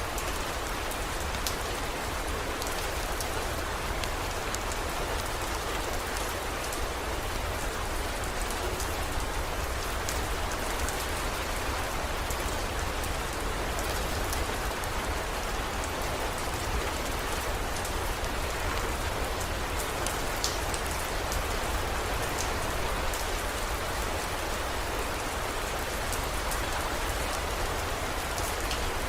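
Steady heavy rain, an even wash with scattered faint ticks of drops and a steady low rumble underneath.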